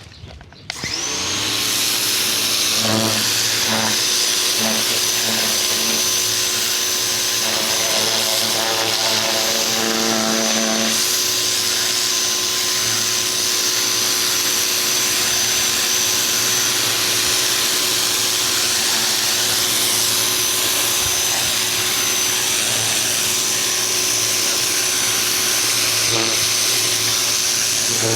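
Ryobi 2000 PSI electric pressure washer starting up about half a second in, then running steadily with a constant whine while the water jet hisses. For several seconds near the start the hum pulses unevenly.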